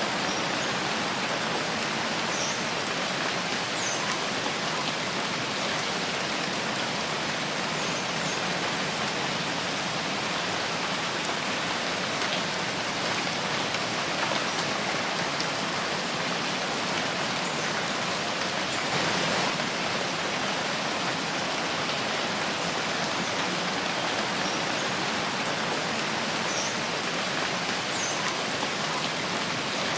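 Steady rain falling in a forest: an even hiss of countless drops on leaves, without a break, with a slight swell about two-thirds of the way through.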